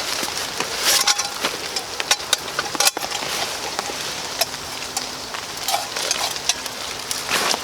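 Rain hissing steadily, with irregular cracks and snaps throughout and a sharper snap about three seconds in.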